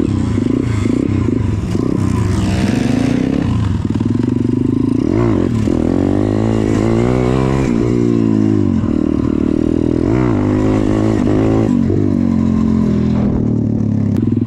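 MRF 140RC pit bike's engine under way, revving up and easing off again and again, its pitch rising and falling with several quick dips as the throttle is shut and reopened.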